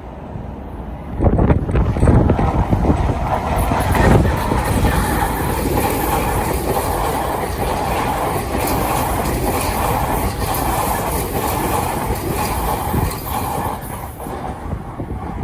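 Tokyu 2020 series electric commuter train passing through a station at speed on a curve, its wheels clacking over the rail joints. It comes in loud about a second in and begins to fade near the end.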